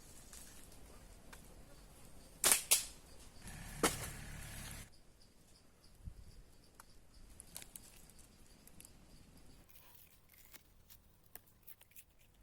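Two sharp snaps a fraction of a second apart, a third about a second later, then scattered light clicks and crackles over faint outdoor background. The snaps fit a hunting slingshot being shot.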